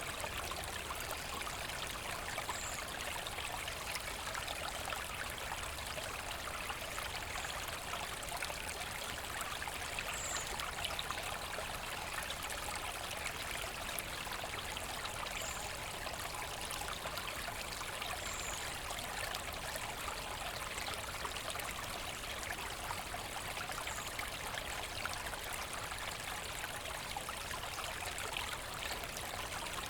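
Forest brook babbling and trickling steadily over stones, with a few brief faint high-pitched notes every few seconds.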